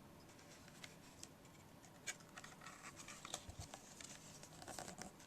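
Near silence with a few faint, scattered small clicks and scratches.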